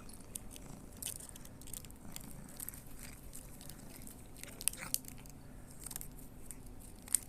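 A cat chewing and crunching its food: small irregular clicks of biting throughout.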